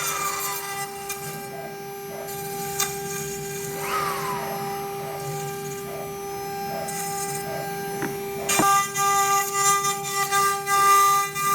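CNC router running on an MDF sheet: a steady spindle whine made of several fixed tones, with short falling tones as the motors slow. A few sharp clicks come near the middle, and from about eight and a half seconds the sound grows louder and hissier as the cutting picks up.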